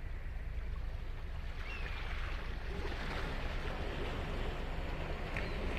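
Ocean surf on a sandy beach: waves breaking and washing in, a steady hiss that swells about three seconds in over a constant low rumble.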